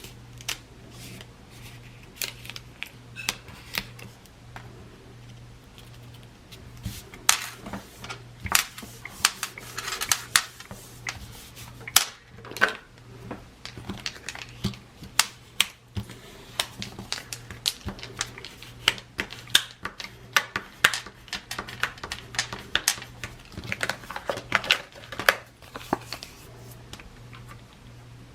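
Papercraft handling at a work table: irregular sharp clicks, taps and rustles of paper, tape and tools, busier from about a quarter of the way in, over a steady low hum.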